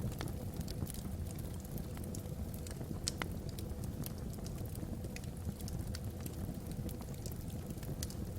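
Wood fire burning logs in a fireplace, crackling with irregular sharp pops, one louder snap about three seconds in, over a steady low rumble.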